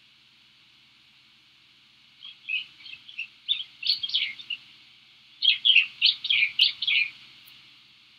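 A bird chirping in two quick bursts of high notes, the first starting about two seconds in and the second about five seconds in, over a steady high hiss.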